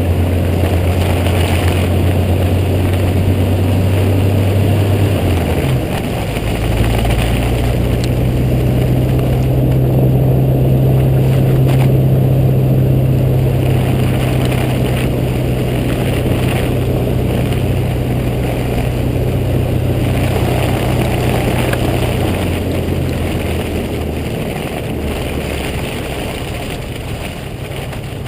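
Jeep Cherokee XJ engine running steadily while driving. The low engine note shifts in pitch about six seconds in and again about twenty-two seconds in, under a constant road and driving noise.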